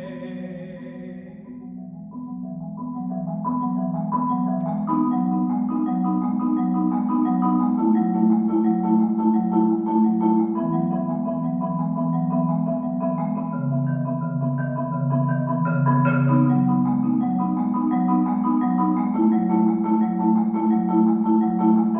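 Solo marimba playing quickly repeated notes in chords, with a low bass line under a higher melody. It starts softer and swells to full volume within the first few seconds.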